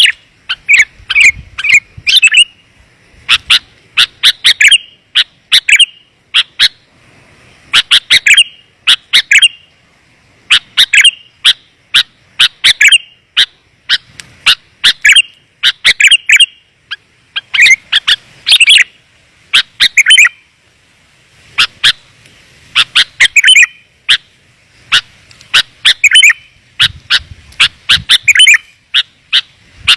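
Sooty-headed bulbul (kutilang) lure call: clear, dense bursts of short chirping notes, a new phrase every second or two, used to call wild bulbuls in.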